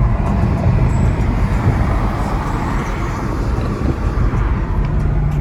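A car's engine and exhaust running close by with road noise, a steadier low drone coming in near the end.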